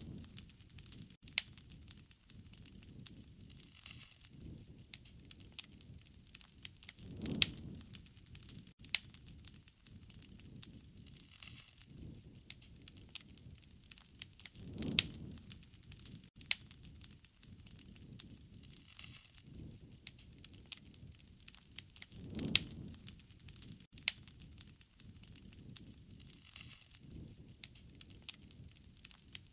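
Campfire crackling, with sharp pops and snaps scattered throughout. A soft low whoosh of flame swells about every seven to eight seconds.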